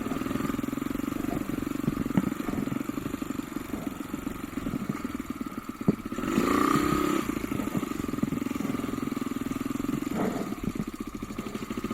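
Off-road motorcycle engine idling with a steady fast beat, blipped once to a short rev about six seconds in, just after a sharp click.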